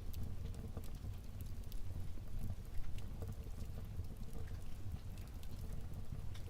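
Fire burning in a fireplace: scattered crackles and pops over a steady low rumble of the flames.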